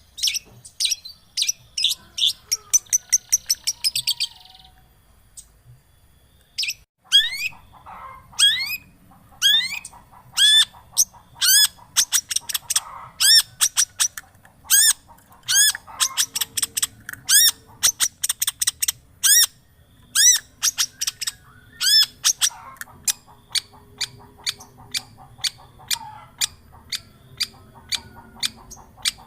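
Long-tailed shrike (cendet) song played as a trigger recording for a shrike that has stopped singing: a long series of short chirps that rise quickly in pitch, about two or three a second, after a brief pause a few seconds in.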